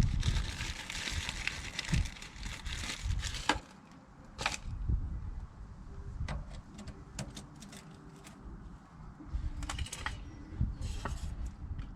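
Irregular rustling, clicks and light knocks of small parts being handled and fitted by hand, busier in the first few seconds.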